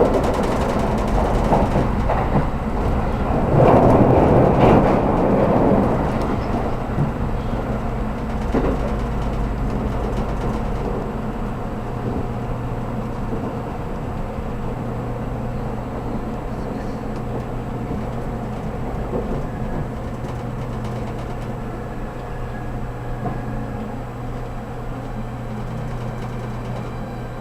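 Low steady hum inside a stationary 783-series express train, its onboard equipment running while the train is held for a safety check. A louder rumble fills the first several seconds and then fades away.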